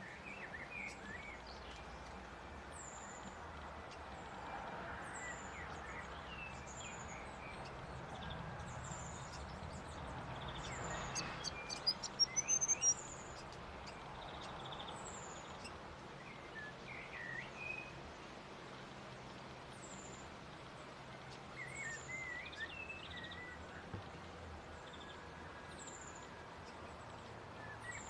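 Small birds calling: a high, thin, downward-slurred chirp repeated every second or two, with squeaky twittering notes lower down. Midway through comes a quick run of sharp, clicky notes, the loudest part, over a steady background hiss.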